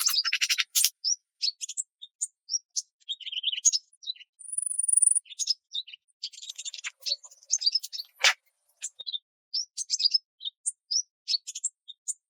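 Small birds chirping in short, scattered high calls, with one brief thin held note about four seconds in.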